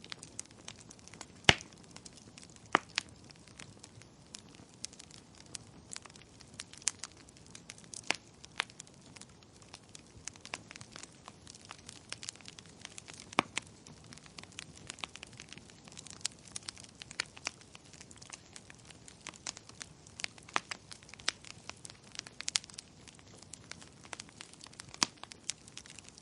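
Wood fire crackling in a fireplace: irregular sharp pops and snaps over a soft steady hiss. The loudest pops come about a second and a half in and again just before the three-second mark.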